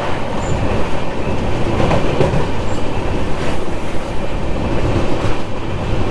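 Passenger train running along the track: a steady rumble of wheels on rails with irregular clickety-clack from the rail joints.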